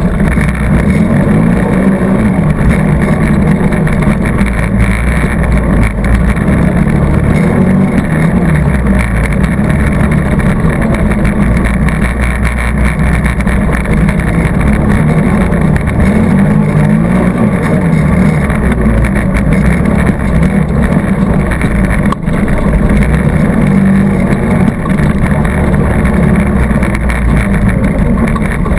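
ATV engine running loud and steady as the machine is ridden along a trail, heard up close from on board.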